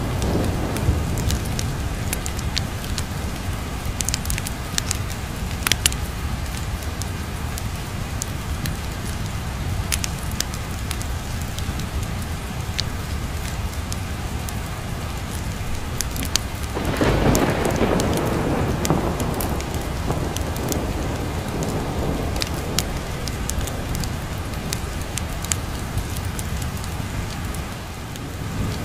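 Steady heavy rain with a thunder rumble that swells up about seventeen seconds in and fades over a few seconds, and another beginning near the end. Sharp crackles from a fireplace are scattered throughout.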